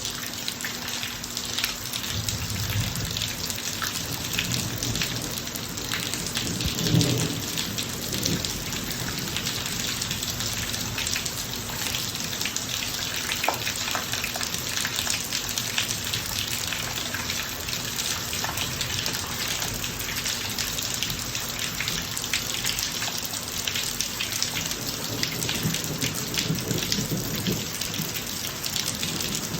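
Steady rain from a thunderstorm, with many separate drops pattering close by. Low thunder rumbles under it, loudest about seven seconds in and rumbling again near the end.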